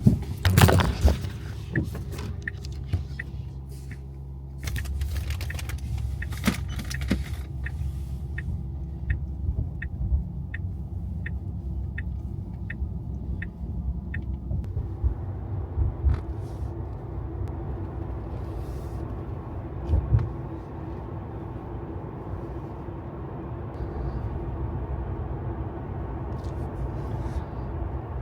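Inside a Tesla's cabin, a few knocks at the start over low road and tyre rumble. The turn-signal indicator then ticks steadily, about one tick every half second, until about halfway through. After that the road and tyre noise grows fuller and steadier.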